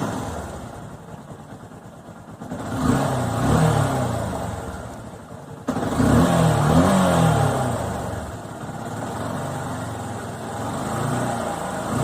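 Yamaha FZ 150's single-cylinder engine idling, then revved in repeated throttle blips, each rising and falling in pitch. The level jumps suddenly about six seconds in.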